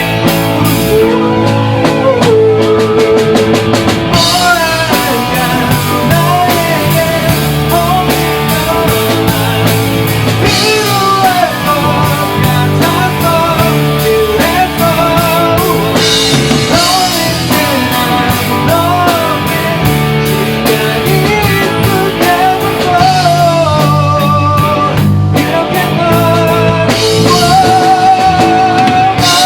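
Live rock band playing an instrumental passage: drum kit and bass keep a steady groove while a lead line with bent, wavering notes plays over it.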